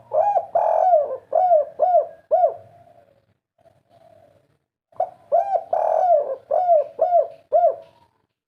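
Spotted dove (tekukur) cooing its 'kuk 3' song: two phrases, each a quick run of short arched coos lasting about two and a half seconds, the second starting about five seconds in after a quiet gap.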